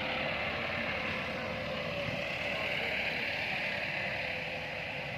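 Massey Ferguson 240 tractor's three-cylinder diesel engine running steadily.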